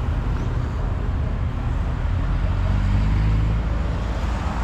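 A car engine running with a low rumble, swelling a little about three seconds in.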